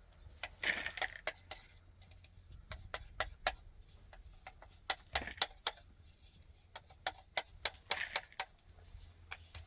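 Irregular clicks and knocks of hard objects being handled, coming in several short clusters over a faint low hum.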